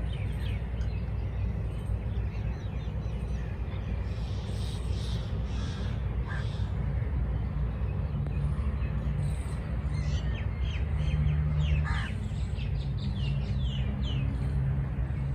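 Birds calling: many small birds chirping in quick short notes, busiest in the second half, with a few harsh calls around the middle, over a steady low rumble.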